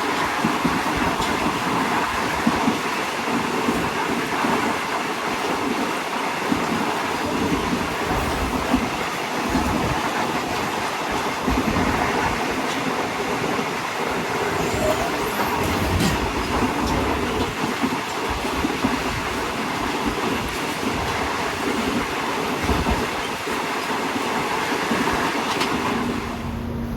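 Overnight sleeper train running along the track, a continuous rumble with the clatter of wheels and carriage.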